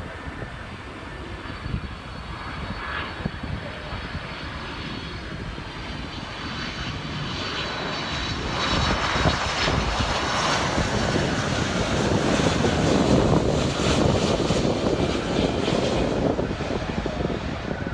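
Widebody jet airliner on approach, its engine noise building steadily with a thin high whine over a rushing roar, loudest a little past the middle.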